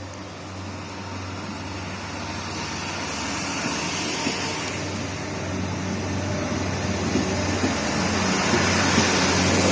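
Diesel train approaching, its engine hum and running noise growing steadily louder.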